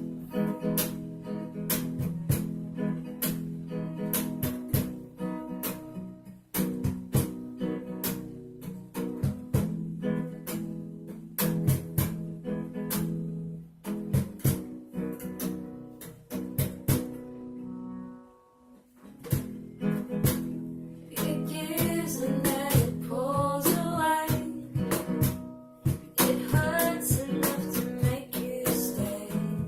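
Acoustic guitar strumming chords in a steady rhythm as a song's intro, with a short pause a little past halfway. A voice starts singing over the guitar about two-thirds of the way in.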